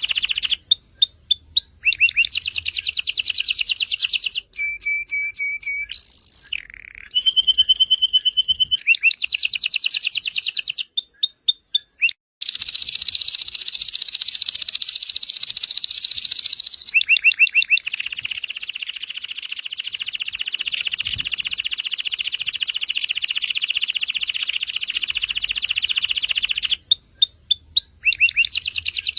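A domestic canary sings a long, varied song. It moves through quick phrases of rapidly repeated high notes and short whistled notes, with two long unbroken rolling trills, the longer lasting about nine seconds.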